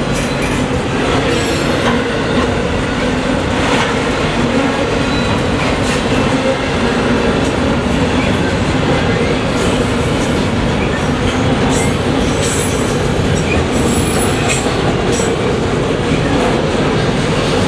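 Freight train cars rolling steadily past, with a continuous rumble, wheel clatter and scattered short high wheel squeals.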